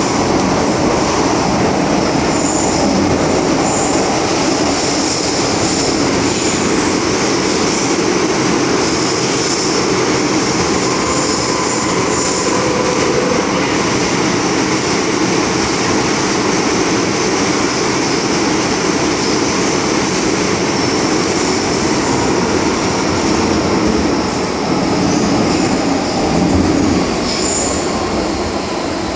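MTR M-Train metro train running at speed, heard from inside the car: a steady rumble of wheels on rail, with faint high-pitched wheel squeal coming and going.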